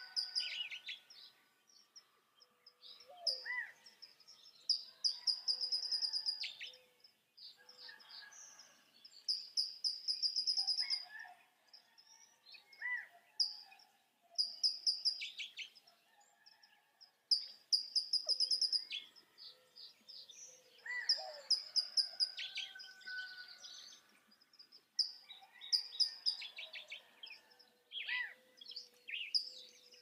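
Small birds singing: high, fast trills of about a second each, repeated every few seconds, with scattered single call notes between them.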